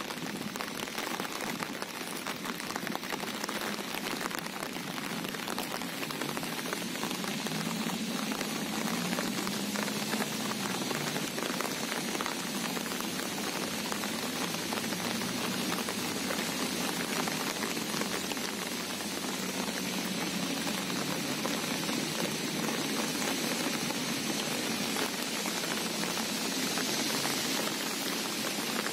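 Steady rain, a dense even patter of many small drops.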